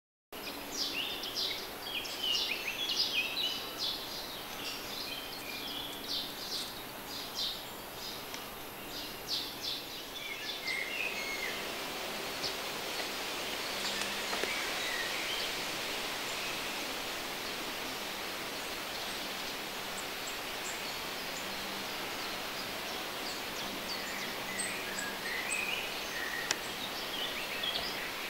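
Outdoor ambience: small birds chirping busily in quick high notes for the first ten seconds or so. After that comes a steady rushing background noise with only occasional bird calls.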